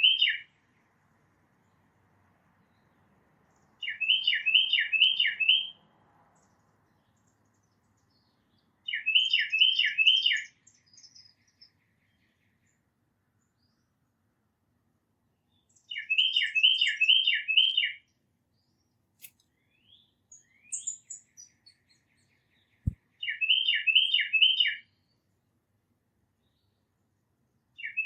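A songbird singing the same short phrase of four or five clear downslurred whistles, repeated every five to six seconds, with a few fainter high chirps in between. A single sharp tap about three quarters of the way through.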